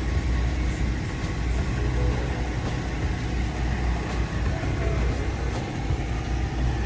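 Steady low rumble of idling vehicle engines and street traffic.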